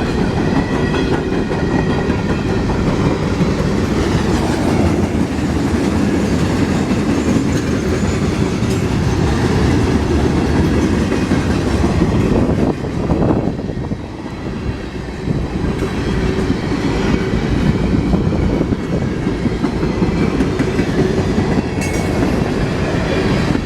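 Freight train passing close by: a steady loud rumble with the wheels clattering over the rail joints.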